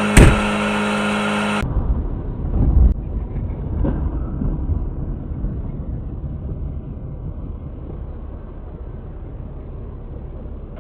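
A sharp, loud bang a moment in, over a steady vehicle hum, typical of a collision. After that comes a duller low rumble of vehicle and road noise that slowly fades.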